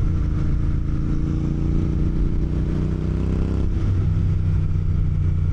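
Motorcycle engine running under way, its pitch climbing slowly for about three and a half seconds, then dropping suddenly, over a low rumble of road and wind.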